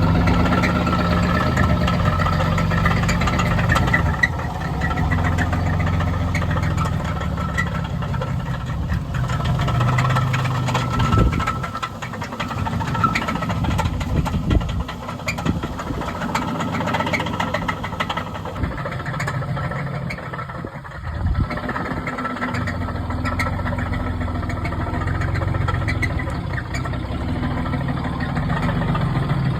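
A vehicle engine running while under way, a steady low drone that briefly drops away about twenty-one seconds in.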